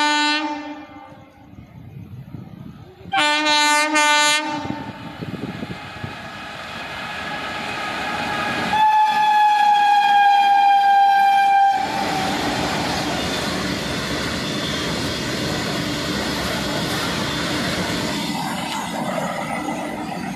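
Indian Railways electric freight locomotive sounding its horn as it passes: one blast ends just after the start, a short blast follows a few seconds in, and a long three-second blast mid-way sags slightly in pitch as the engine goes by. Then comes the steady rumble and clatter of covered goods wagons rolling past.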